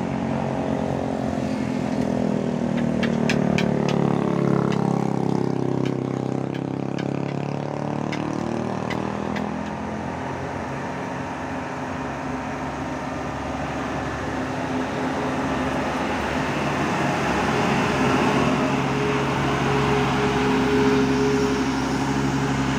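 Diesel engines of heavily loaded trucks pulling slowly up a steep climb. There is a continuous deep drone whose pitch slides during the first several seconds as a vehicle passes, then holds steady.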